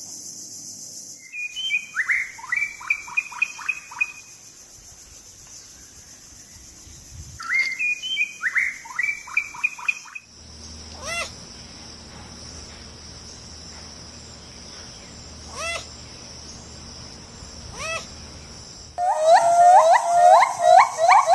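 A steady high insect trill under a bird's song: two phrases of quick, falling chirps, then three brief sweeping calls spaced a few seconds apart, and near the end a loud, fast run of repeated notes.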